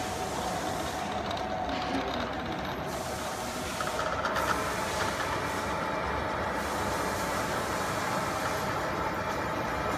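Gantry CNC drilling and cutting machine running, a steady mechanical noise with a faint constant whine, briefly brighter about four seconds in.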